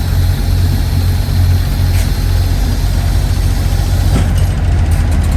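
Semi truck's diesel engine running steadily at low revs, a deep even rumble.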